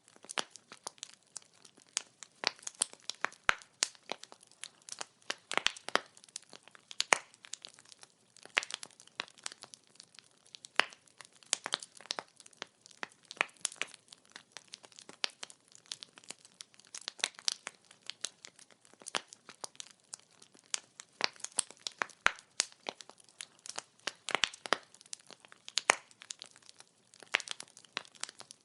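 Burning firewood crackling: an irregular, unbroken run of sharp pops and snaps, several a second, some louder than the rest.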